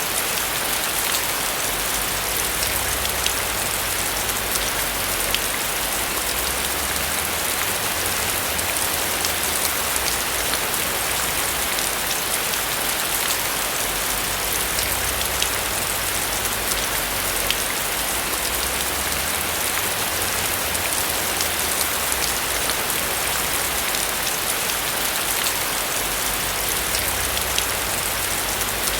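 Steady rain falling on a roof, a dense patter of drops with fine individual ticks over a low rumble.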